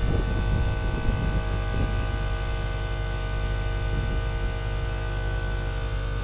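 A machine running steadily, giving a constant-pitched drone with a low rumble under it.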